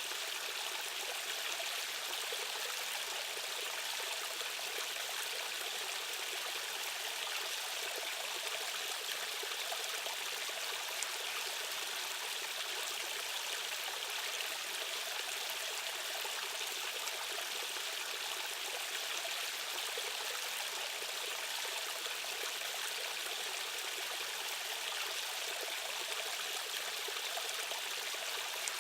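Steady rushing of flowing stream water, a constant, unchanging hiss.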